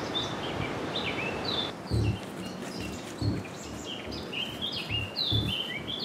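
Small woodland birds chirping, many short quick chirps, over a steady outdoor hiss, with a few dull low thumps from about two seconds in.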